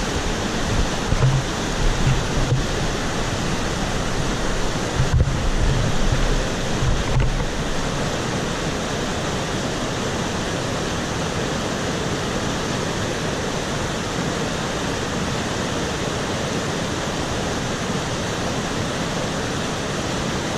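A monsoon-swollen mountain stream rushing, a steady roar of water. Low buffeting on the microphone comes and goes during the first seven seconds or so.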